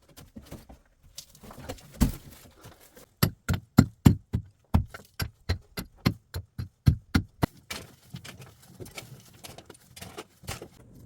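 A run of sharp, evenly spaced knocks, about three to four a second for some four seconds, with a few scattered knocks before and after: the sound of something being struck repeatedly by hand.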